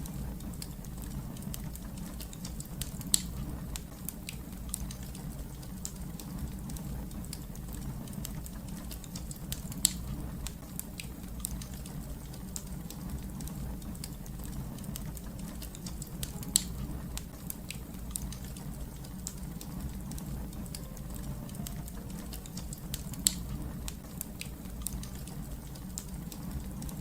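Wood fire crackling: a steady low rumble of flames under many small sharp snaps, with four louder pops spaced evenly about seven seconds apart.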